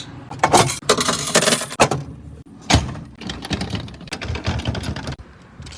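Quarters clinking and clattering as they are handled and emptied from a car wash pay machine's metal coin box, with a dense run of jingling about a second in and scattered knocks and clanks after.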